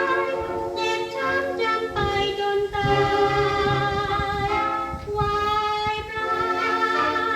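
A Thai popular song played from a vinyl record: a woman sings long held, wavering notes over a band accompaniment.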